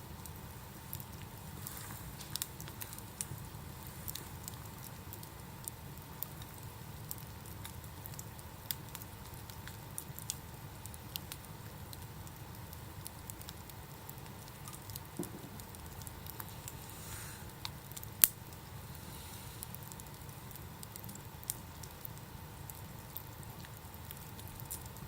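Wood campfire crackling, with scattered sharp pops and snaps and one much louder snap about three-quarters of the way through.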